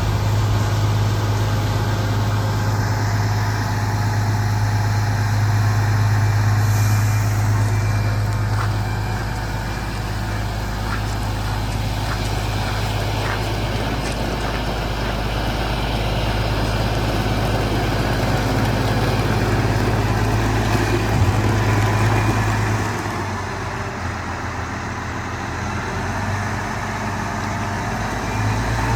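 Fendt 1050 Vario tractor's six-cylinder diesel engine running steadily at idle, with a deep, even hum; the low hum drops a little for several seconds near the end before coming back.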